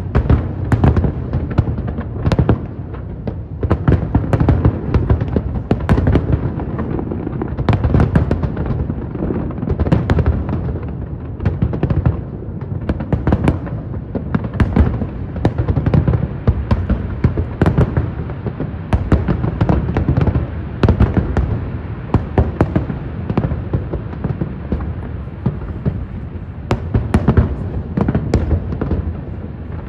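Aerial fireworks display going off without pause: a dense, continuous barrage of sharp bangs and crackles over a constant low rumble of bursting shells.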